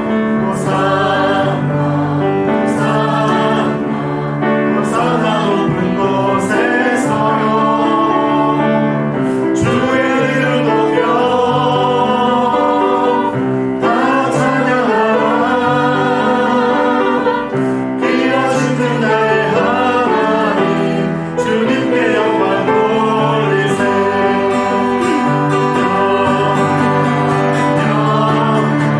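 Church praise team singing a worship song with band accompaniment: several voices in harmony over sustained bass and guitar chords.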